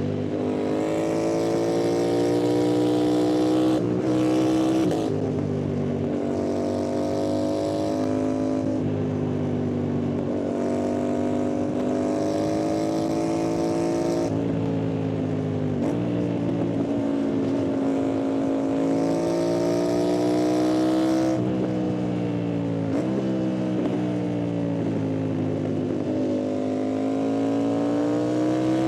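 Yamaha MT-07's parallel-twin engine accelerating through the gears, its pitch climbing steadily and then dropping sharply at each gear change, several times over.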